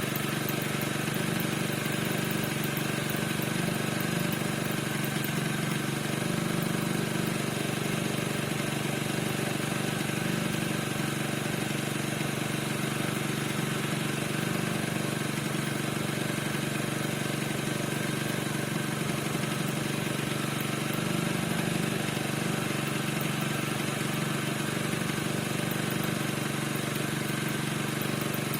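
Piaggio NRG 50 scooter's 50 cc two-stroke engine running steadily at idle, with the squeak whose cause the owner is asking about.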